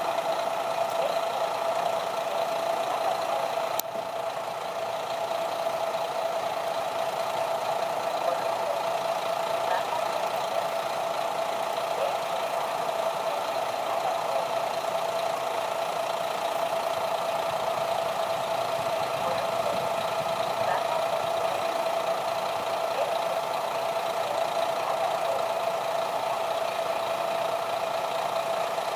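An engine idling steadily with a constant hum, with a brief dip about four seconds in.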